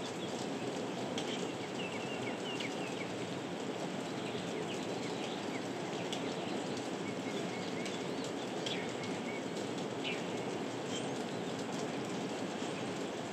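Heavy rain falling steadily, with a few short high chirps scattered through it.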